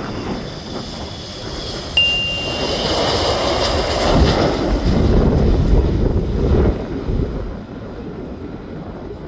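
Jet airliner engines at takeoff power, the roar and low rumble swelling to a peak between about three and seven seconds in and then easing off. A single sharp ding rings out about two seconds in.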